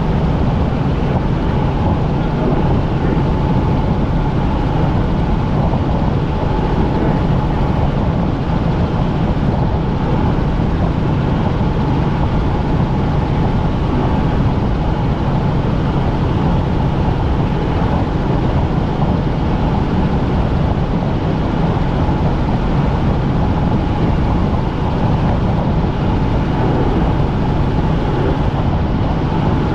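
Helicopter in flight, its engine and rotor noise loud and steady throughout, with a constant low hum and a fixed higher drone.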